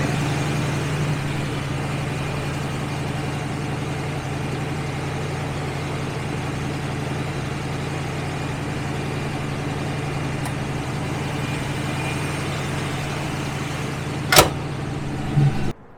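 An old car's engine idling steadily with a low hum. There is a single sharp click near the end, then the sound cuts off suddenly.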